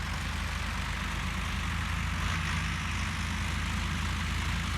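Diesel tractor engine running steadily: a low, even engine drone.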